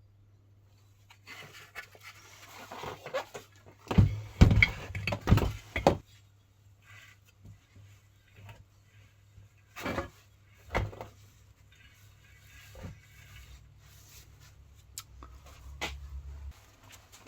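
Tools and metal parts being handled during hands-on car suspension work: a run of knocks and clanks, loudest about four to six seconds in, then two more single knocks, over a faint steady low hum.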